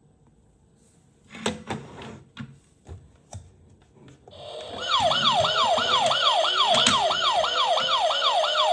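A few sharp clicks and knocks, then a toy police car's electronic siren switching on about four seconds in. It is loud and repeats a fast rising yelp about four times a second.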